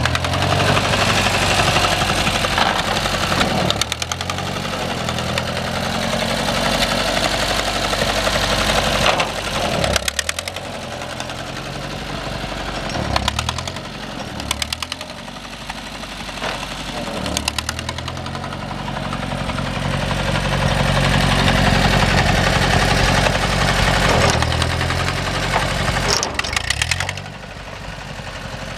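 A 1943 Ford 9N tractor's four-cylinder flathead engine running, its speed dropping and picking back up several times as the throttle is worked.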